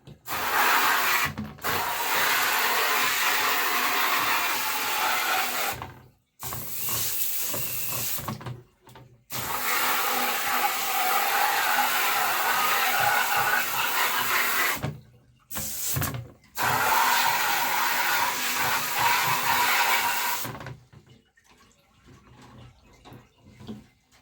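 Running water spraying over a birdcage as it is rinsed in a bathtub. The flow stops briefly several times and dies away a few seconds before the end.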